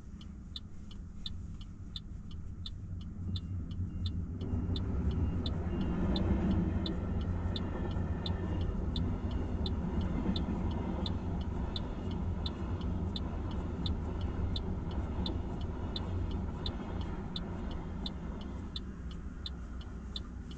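Level-crossing warning bell ringing steadily at about two and a half strokes a second, while a freight train passes from about four seconds in: an EH500 electric locomotive hauling Koki 100 container wagons. The train noise is loudest soon after it arrives and eases near the end.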